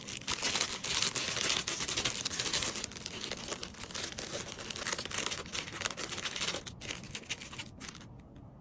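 Packaging crinkling and rustling as an item is handled and packed, a dense run of small crackles that dies away near the end.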